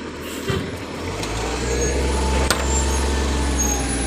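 Garbage truck engine running, rising in speed and level about a second in and holding there, with a sharp knock about halfway through.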